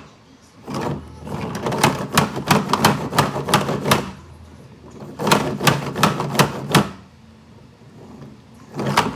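Plastic toy trucks clattering: rapid clacking and rattling in two bursts of several seconds each, with a few more clacks near the end.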